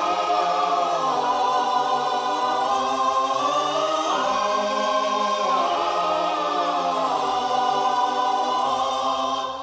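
Background music of choral singing: voices hold long notes that shift slowly in pitch, fading out at the very end.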